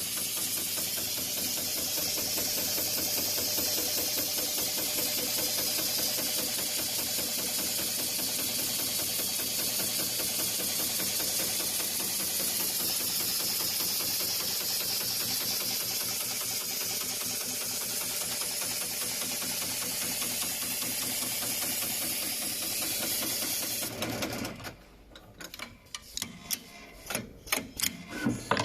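Heavy-duty industrial pattern sewing machine running steadily, stitching thick webbing with a fast, even stitch rhythm, then stopping about 24 seconds in. A series of separate clicks and knocks follows near the end.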